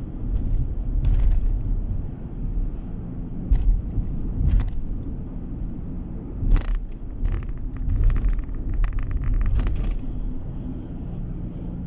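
Steady low road and engine rumble of a car driving, heard inside the cabin, with scattered sharp clicks and knocks, several in a cluster in the second half.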